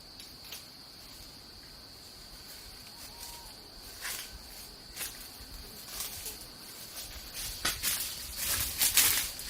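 Steady high-pitched insect drone, like crickets, with sharp rustling and crackling sounds that start about four seconds in and grow busier and louder near the end.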